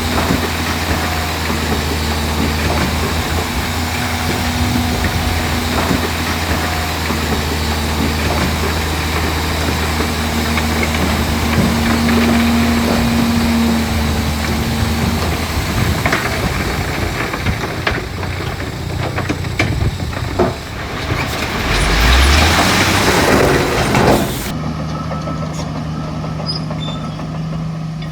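Heavy diesel construction machinery running steadily with a deep engine drone. Toward the end there is a stretch of clattering and knocks with a brief rise in engine pitch. Then the sound changes abruptly to a lower, steadier engine drone.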